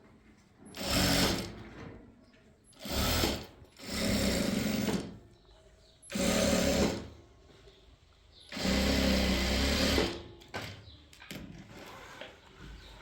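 Sewing machine running in five short bursts, each about a second long with the longest near the end, stopping briefly between runs.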